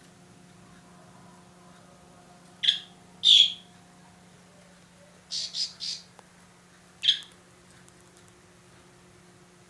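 A bird's short, high squawking calls: two single calls, a quick run of three, then one more.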